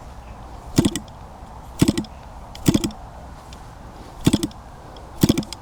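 Petrol model-airplane engine being turned over for a start: five short knocks about a second apart, and it never catches. The carburetor has run dry of fuel.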